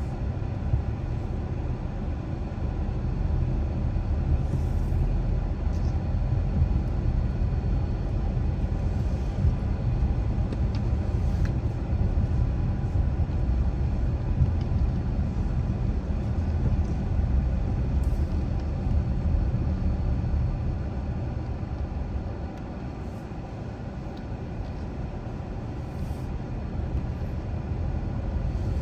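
Car driving along a residential street: steady low rumble of the engine and tyres on the road, easing off about two thirds of the way through and picking up again near the end.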